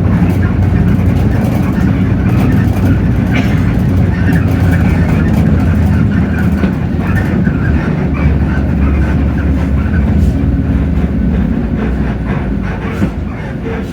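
Hino J08E-VN inline-six diesel of a Hino RK8JRVA-KJF city bus running under way, heard from inside the bus. The engine's low hum shifts in pitch partway through, with light rattles over it.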